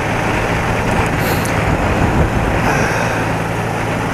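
BMW R80RT's air-cooled flat-twin boxer engine running at a steady cruising speed under way, with a constant rush of wind and road noise over it.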